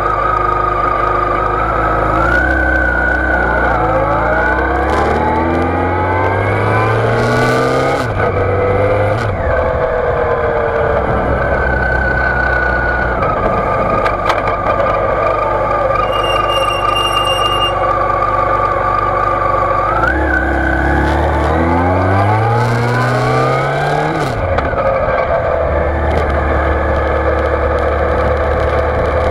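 2006 Yamaha FJR1300's inline-four engine pulling away and accelerating, its pitch climbing and dropping back with each upshift. It settles to a steady cruise, then climbs through the gears again about twenty seconds in. Recorded through a dive-case camera housing mounted low on the bike.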